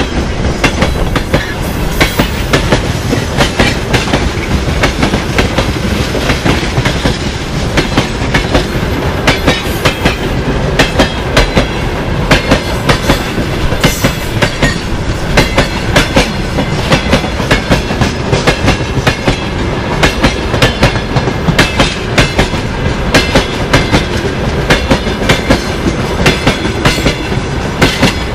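Freight train rolling past close by, its wheels clattering over the rail joints in a steady, repeating rhythm of sharp clicks over a loud rolling rumble.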